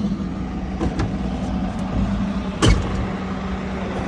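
Steady low hum of the Kobelco SK210 LC excavator running. A sharp knock comes about two and a half seconds in, and a couple of light clicks come about a second in.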